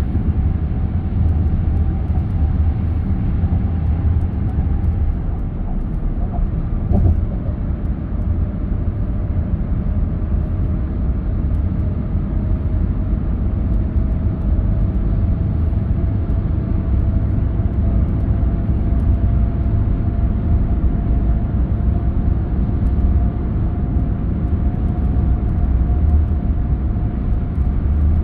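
A car driving on the road: steady low rumble of tyres and engine, with a faint whine that drifts slowly in pitch and a single click about seven seconds in.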